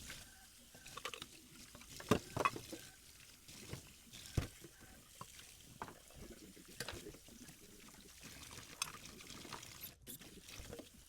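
A blender being washed by hand: water splashing and pouring, broken by irregular knocks and clinks of the jar and its parts, the loudest a couple of seconds in and again near four and a half seconds.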